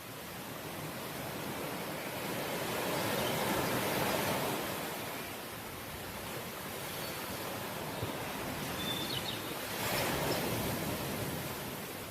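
Sea waves washing ashore in a steady rush of surf, swelling into two louder surges, a few seconds in and again near the end.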